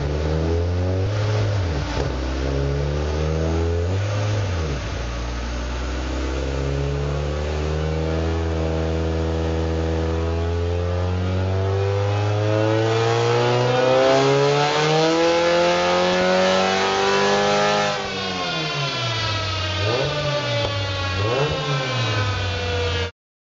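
Mitsubishi Lancer Evolution VIII's turbocharged 4G63 four-cylinder engine on a chassis dyno during a shakedown tune. It gives a few short rev blips, then makes one long full-throttle pull with the revs climbing steadily for about thirteen seconds. The revs drop away suddenly, and two more quick blips follow.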